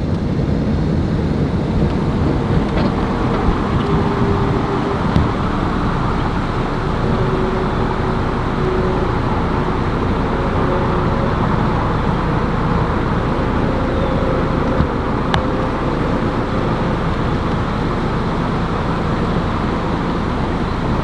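Steady rumble of a motor vehicle and road noise, with a few faint clicks.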